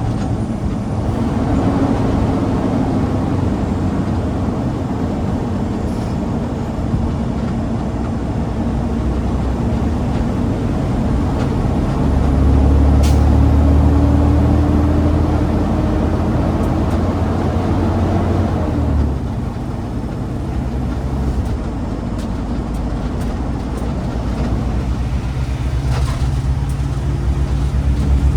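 A garbage truck's diesel engine runs steadily under way with road noise. About twelve seconds in it pulls harder, its note rising slowly for several seconds, then it eases off.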